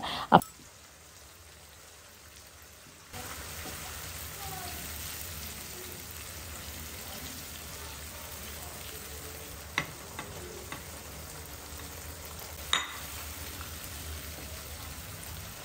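Onion-tomato-mint masala and paneer frying in oil in a non-stick kadai, a steady sizzle that starts about three seconds in while a wooden spatula stirs. Two sharp taps of the spatula on the pan come later.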